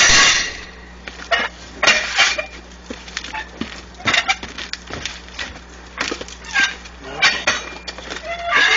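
Manual bead breaker being slammed down against a tire's bead at the rim, a series of heavy metallic clanks at uneven intervals, about one to two seconds apart. Each slam drives the tool to break the bead of a cold, stiff tire loose from the rim.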